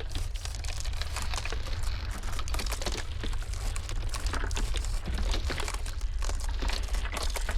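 Iceberg ice cracking in a dense stream of small snaps and crackles over a steady low rumble of blizzard wind.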